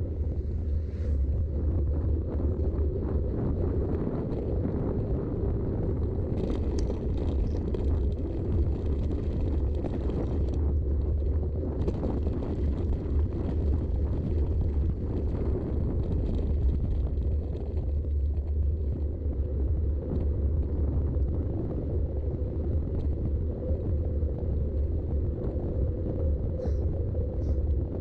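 Riding noise from a Specialized Rockhopper 29" mountain bike on the move, recorded on a GoPro: a steady low rumble of wind on the microphone and tyres rolling, with light rattles. A brighter hiss joins twice, about six seconds in and again about twelve seconds in.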